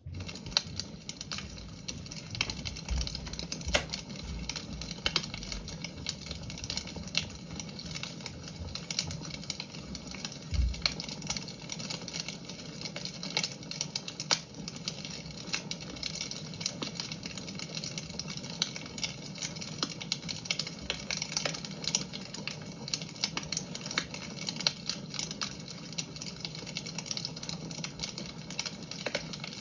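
Fire in a fireplace crackling, with irregular small pops and a few louder snaps over a steady hiss.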